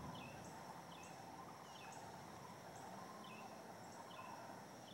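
Faint birds calling: short, high, slightly falling chirps repeating about once a second over a faint steady background hum.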